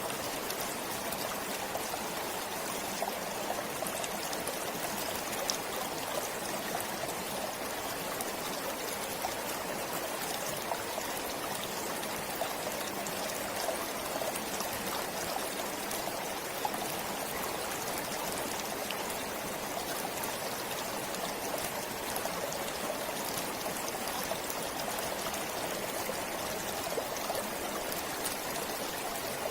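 A forest stream flowing steadily over rocks, a continuous rush of water with small trickles and splashes.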